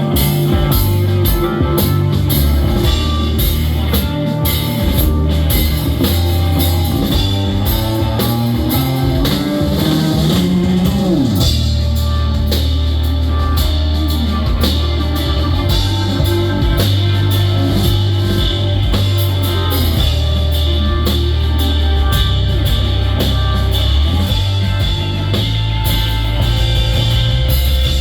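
Live rock band playing an instrumental stretch of a song: drum kit, electric guitar and bass. Around ten seconds in, a pitched line slides upward and then drops sharply, after which the bass grows heavier.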